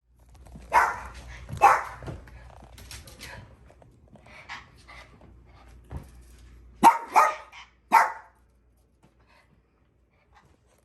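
A dog barking: two loud barks about a second apart, then after several seconds of softer sounds, three more barks in quick succession.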